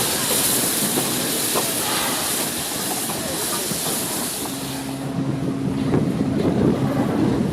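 Steam hissing from the Rx207 steam locomotive, cutting off about five seconds in. A low rumble with a steady low hum follows and grows louder toward the end.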